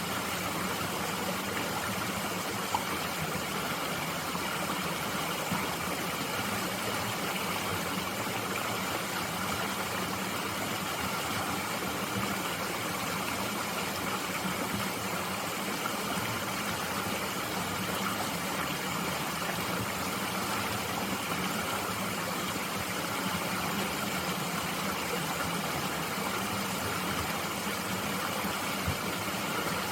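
Mountain stream flowing steadily, an even rush of water with no change, broken only by a few faint clicks.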